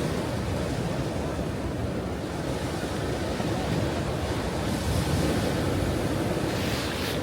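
Ocean surf: a steady low rush of waves breaking and washing on the shore, with the brighter hiss of a wave spreading up the beach near the end.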